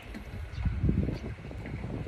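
Wind buffeting the microphone: an irregular low rumble that swells about half a second in.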